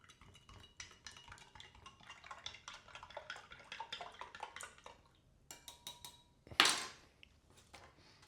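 A spoon stirring rehydrating freeze-dried beef stroganoff inside its ration pouch: quick light scraping and clinking for several seconds, then one short, louder rustle about two-thirds of the way in.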